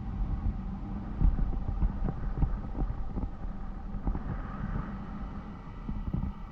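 Honda CBR250R's single-cylinder engine running steadily, heard over low rumble and irregular thumps of wind buffeting the microphone.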